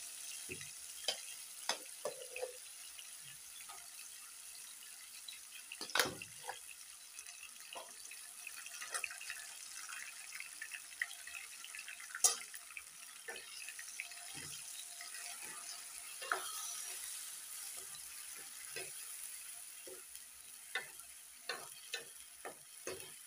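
Ground onion-tomato masala paste frying in hot mustard oil in a kadhai with a steady sizzle, while a steel ladle stirs it, scraping and tapping the pan in many short clicks with a few louder knocks.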